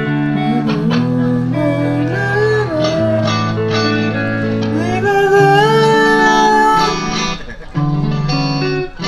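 Electric guitar music: a lead line of bent, wavering notes over held chords, louder from about five seconds in and dipping briefly near the end.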